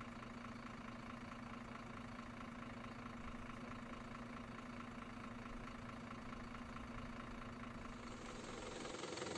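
Steady engine idling sound from a remote-control model vehicle. About eight seconds in it changes to a louder, rougher running sound.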